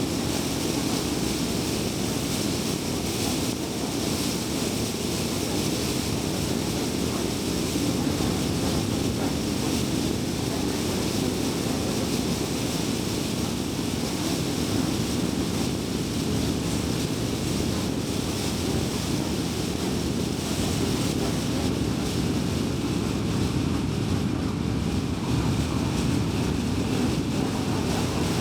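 Car driving at expressway speed: a steady, low rumble of tyres on the road with a fainter hiss above it.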